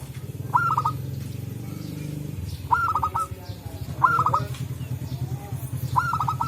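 Zebra dove (perkutut) calling: four short bursts of quick staccato notes, spaced a second or two apart, over a low steady hum.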